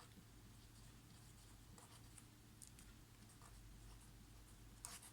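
Near silence with a few faint, short scratches of a pen writing, over a low steady room hum.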